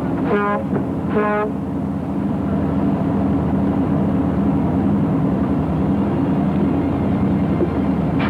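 Two short horn toots in the first second and a half, over the steady drone of a boat's engines running.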